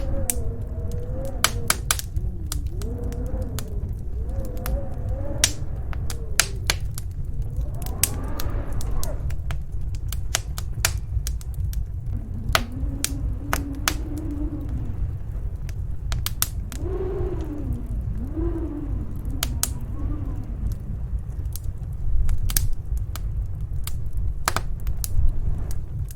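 Wood fire crackling with frequent sharp pops over the steady low rumble of snowstorm wind, which now and then howls in slow rising and falling tones.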